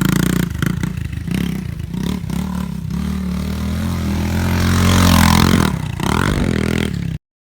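Pit bike engine running and revving. It builds to its loudest about five seconds in, eases off, and the sound cuts off abruptly just before the end.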